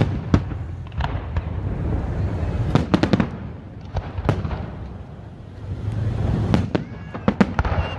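Fireworks display: sharp bangs and cracks going off at irregular intervals over a continuous low rumble, easing briefly around the middle before picking up again.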